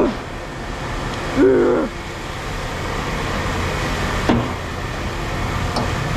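Steady low rumble of a truck's engine and road noise heard from inside the cab while driving, with a brief voice-like sound about one and a half seconds in.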